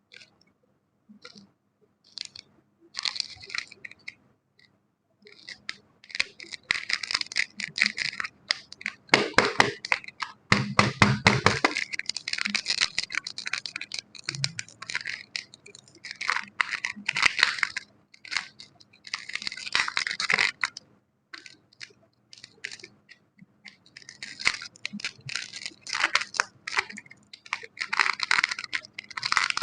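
Close-miked ASMR scratching, crinkling and tearing sounds. They come in irregular runs of rapid sharp crackles with short pauses between them.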